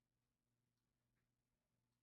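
Near silence: the audio is essentially empty.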